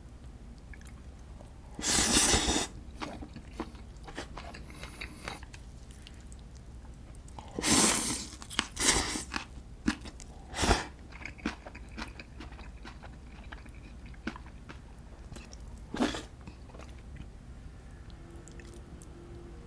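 A person eating close to the microphone: chewing and biting, with about five short loud bursts among quieter clicks.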